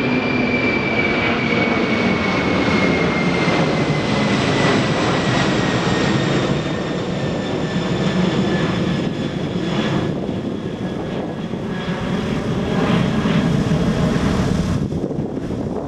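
Jet airliner engines passing, a loud steady rush with a high whine that slowly falls in pitch.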